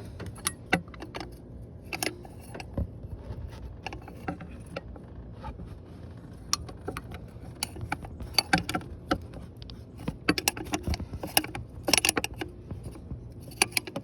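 Irregular metallic clicks and clinks of a wrench and the steel exhaust back pressure tube being worked loose from their fittings by hand on a 7.3L Powerstroke diesel, coming thicker in the second half.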